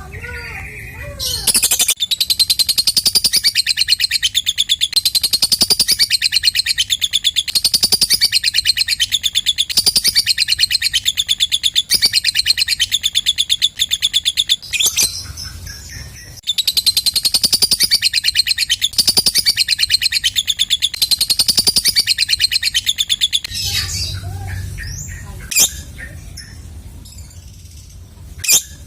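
Lovebird 'ngekek': a long, very fast, high-pitched chattering trill in two long bouts, the first about thirteen seconds and the second about seven, with a short break between them. A few scattered chirps follow near the end.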